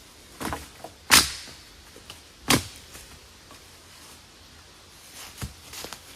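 A few separate sharp knocks, the loudest about a second in, another about two and a half seconds in, and a smaller one near the end.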